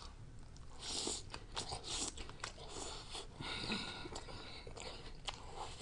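Close-miked chewing as a person eats a Subway protein bowl: soft crunches and wet mouth clicks, scattered and irregular.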